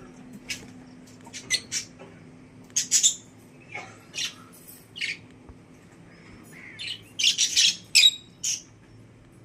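Budgerigars chirping and squawking in short, scattered calls, with a dense flurry of calls near the end.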